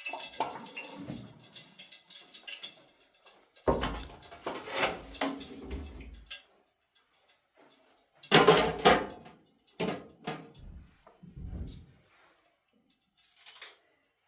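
Water splashing and sloshing in several irregular bursts, the loudest just past the middle, with quiet gaps between.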